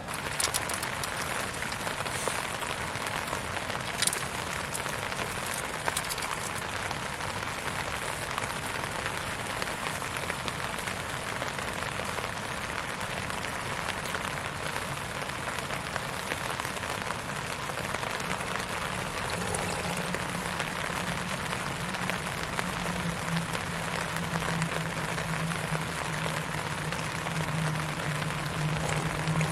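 Steak sizzling hard in a hot pan over a campfire: a steady loud hiss with a few sharp pops and crackles in the first seconds. A low steady hum joins about two-thirds of the way through.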